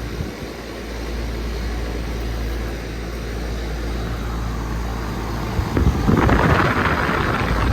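Carrier central air conditioner condensing unit running, its LG scroll compressor humming steadily under the fan. About six seconds in, a louder rushing noise rises over it for roughly two seconds.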